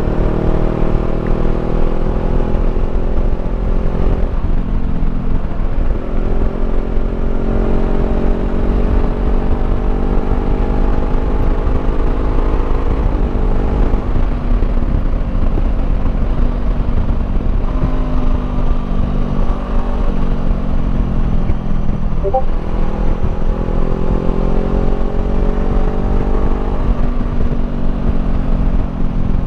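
Honda CBR500R's parallel-twin engine through a Termignoni slip-on exhaust, under way: the pitch climbs with the revs and drops at each gear change or roll-off, several times over, on top of a heavy rumble of wind.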